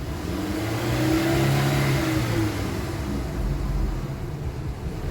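2007 VW Passat's turbocharged engine revved once: the pitch climbs to a peak about a second and a half in, falls back by about three seconds, then settles to idle. The owner is revving it to test a low oil pressure warning.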